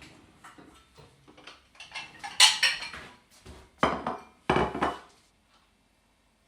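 Dishes and cutlery clattering: a run of clinks and knocks, the loudest about halfway through, two more soon after, then it stops.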